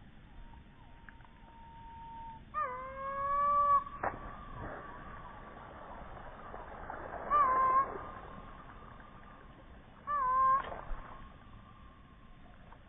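A bird giving three long, held calls, each opening with a short downward slide and then holding one note: the first about two and a half seconds in, the second about seven seconds in, the third near ten seconds in.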